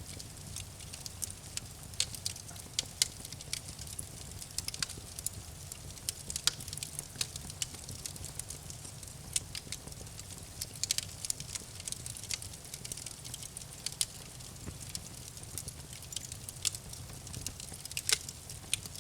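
Campfire burning: irregular sharp crackles and pops of burning wood over a steady low rumble of the flames.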